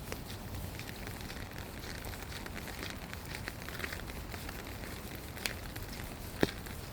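Light rain pattering and dripping, heard as many small scattered ticks over a steady low background, with one sharper tap near the end.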